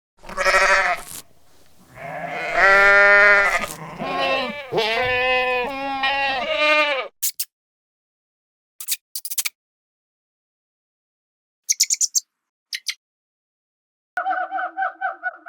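Several loud bleating animal calls over the first seven seconds, each a wavering pitched cry. They are followed by a few short clicks, two brief high chirps, and, near the end, a rapidly pulsing pitched call.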